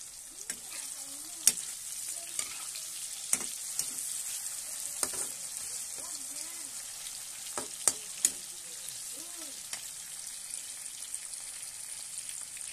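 Sliced onions, tomatoes and garlic sizzling steadily in hot oil in a wok as they are sautéed and stirred. A handful of sharp knocks of the spatula against the pan stand out over the sizzle, two of them close together about eight seconds in.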